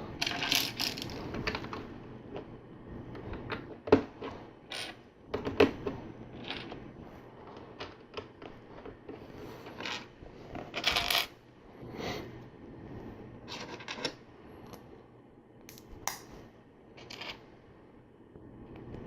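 Plastic LEGO bricks being handled and pressed together: scattered sharp clicks and short clattering rustles of loose pieces, the loudest two clicks about four and five and a half seconds in.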